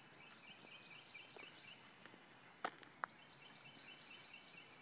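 Faint birdsong: a bird repeating short high notes in a quick series, several a second. Two sharp clicks about half a second apart come just past the middle.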